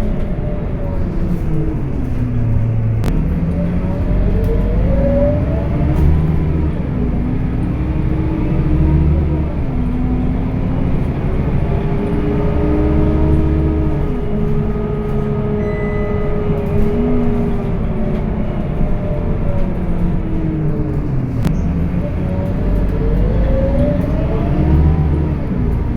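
Scania K230UB city bus driving with its ZF automatic gearbox, heard as engine and drivetrain noise. The engine note climbs as the bus accelerates and drops back at each gear change, several times over.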